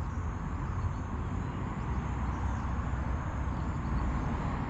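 Steady low rumble of outdoor background noise with no distinct events, growing slightly louder near the end.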